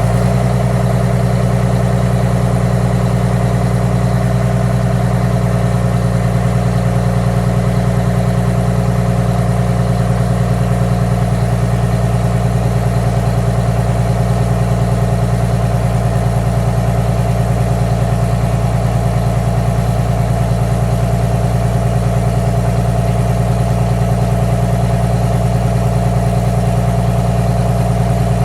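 Detroit Diesel 6V92TA two-stroke V6 diesel in a GM 4106 coach idling steadily just after starting on fresh oil.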